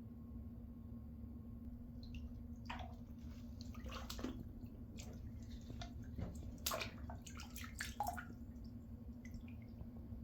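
Water dripping and splashing lightly in a bathtub, in scattered drops that come most thickly in the middle and include a few louder plops, over a steady low hum.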